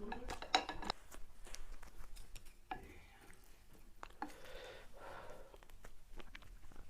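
Close-up eating sounds: a few sharp crunches and bites in the first second, then quieter chewing.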